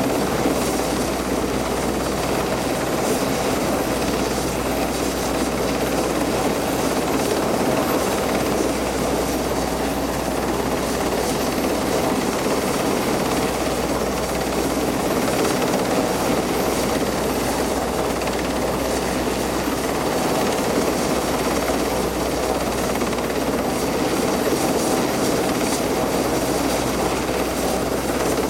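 RAF rescue helicopter's rotors and engines running steadily: a constant loud drone with a low hum underneath.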